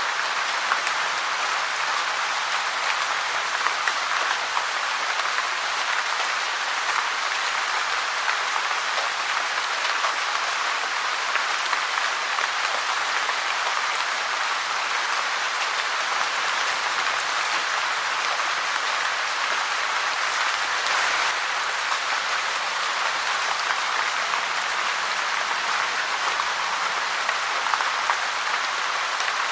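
Steady rain falling, a dense even hiss of countless drops that neither builds nor fades.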